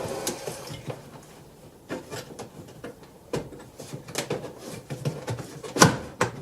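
Scattered clicks, scrapes and knocks of a car air filter being forced into its plastic airbox, with one sharp knock near the end.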